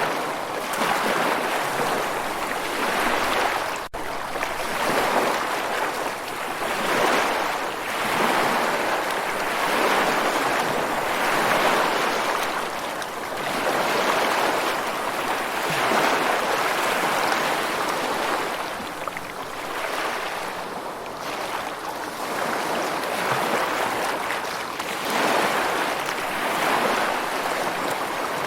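Rushing water, a steady hiss that swells and ebbs every second or two like surf or a fast stream. There is a split-second gap about four seconds in.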